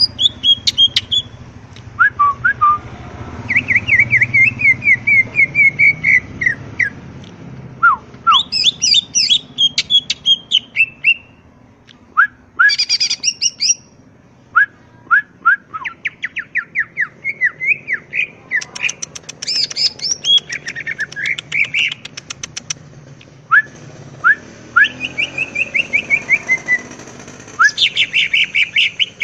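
Cucak ijo (green leafbird) singing loudly in varied, rapid phrases: quick descending runs of notes, sharp upslurred chips and fast trills, broken by short pauses.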